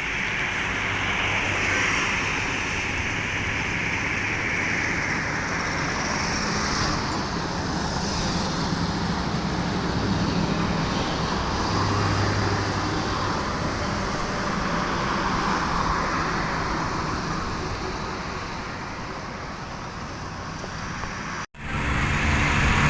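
Diesel engine of a loaded Mercedes-Benz NG 2435 truck running steadily while cruising, with tyre and road noise. The sound cuts out abruptly near the end and comes back louder.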